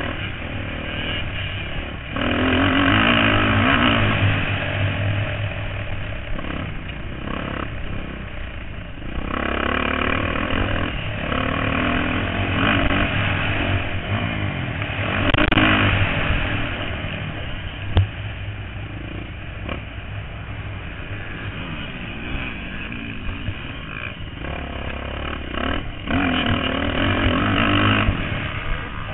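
Motocross bikes racing on the track, engines revving up and down continuously, growing loud as bikes come past about three times: a few seconds in, midway, and near the end. A single sharp click comes a little past the middle.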